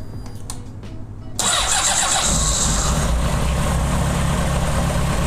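A 2004 Honda CBR600RR's inline-four engine starting about a second in and settling into a steady idle, run on its fresh oil.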